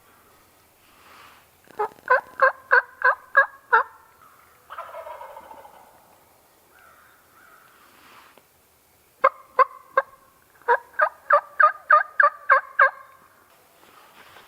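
Wild turkey-style yelping: two loud series of short, evenly spaced yelps, about seven and then about a dozen, roughly three a second, with a quieter, rougher call between the series.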